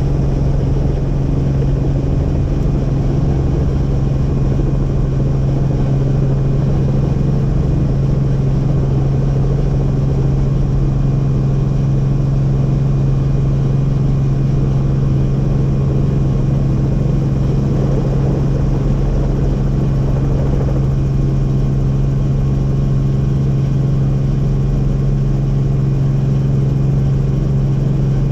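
Helicopter in flight: a loud, steady drone of rotor and engine with a strong low hum that holds without change.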